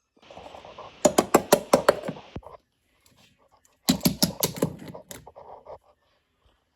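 Two quick runs of sharp clicks, about six a second, the first over a steady hiss.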